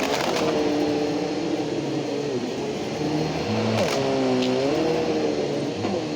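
Bissell PowerGroom upright vacuum cleaner with a 12 amp motor running while it picks up sawdust and chicken bedding. It is a steady motor whine and air rush whose pitch dips and rises as the load changes, with a few sharp clicks about four seconds in.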